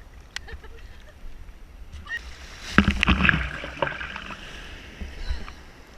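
Ocean water churning around the microphone, with a loud wash of breaking surf about three seconds in that fades over a second or so.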